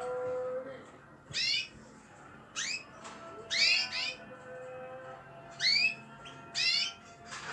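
Cage songbirds, a flock of young and adult birds, giving short chirps: about five quick up-and-down calls spaced roughly a second apart, over a faint held tone.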